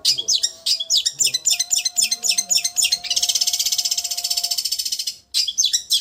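Long-tailed shrike (cendet) singing a 'raja getar' masteran song: rapid, sharp high chirps, then a long fast buzzing trill about halfway through, a brief break, and more quick chirps near the end.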